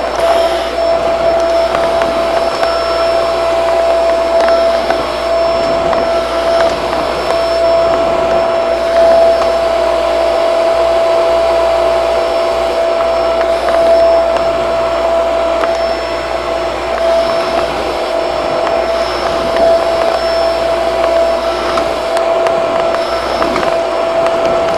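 Shark vacuum cleaner running steadily, its motor giving a constant whine.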